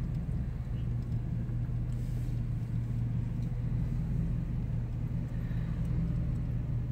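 Car engine running at low speed, heard from inside the cabin as a steady low hum with faint road noise.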